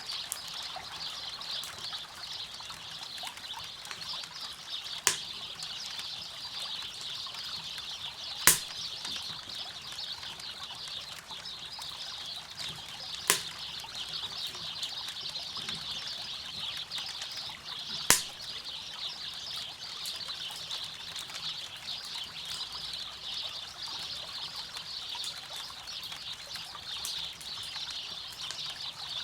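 River water running steadily, with a campfire crackling: four sharp pops stand out, about 5, 8, 13 and 18 seconds in.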